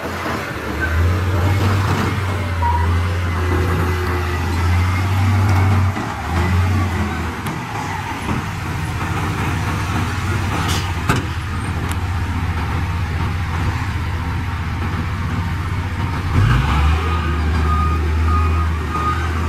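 Heavy diesel engines of earthmoving machines running, a deep steady drone that dips briefly twice, with a reversing alarm beeping near the end.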